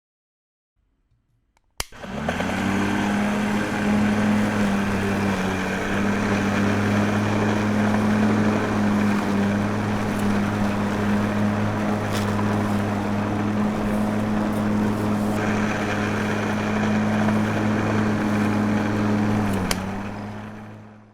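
A small motor switches on with a click about two seconds in and runs at a steady speed with an even hum, then winds down and stops near the end.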